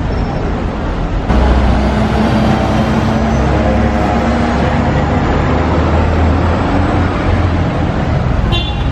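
A bus engine running close by over street traffic noise, its hum growing suddenly louder about a second in and then holding steady.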